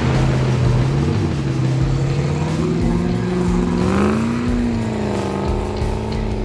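A four-wheel-drive vehicle's engine running under load. Its note dips at the start, then climbs steadily as it accelerates, peaking about four seconds in before easing back slightly.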